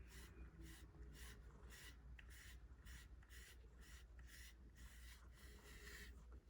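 A brush drawn through a cat's fur in short repeated strokes, about two a second, each a soft scratchy swish.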